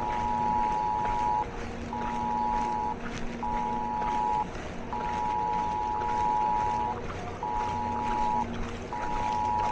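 Electronic beeping: a steady two-pitch tone switching on and off in pulses of about a second, one held for about two seconds, over a steady low engine hum.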